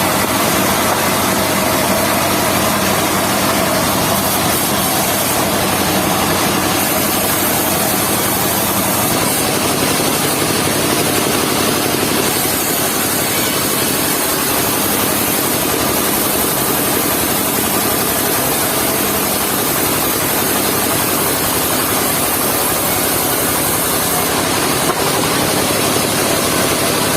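Engine of a mobile circular sawmill running steadily.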